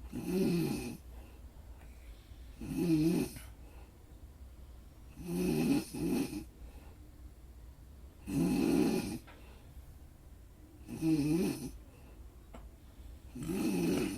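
Snoring in a slow, even rhythm: six snores, one about every two and a half seconds, each lasting about a second.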